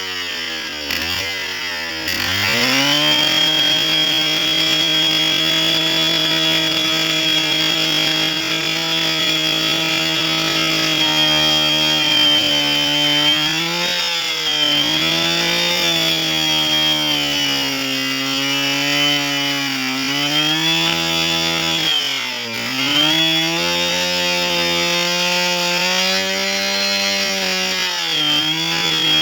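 Chainsaw engine climbing to full throttle about two seconds in, then running at high revs. Its pitch sags briefly several times as the chain cuts into wood.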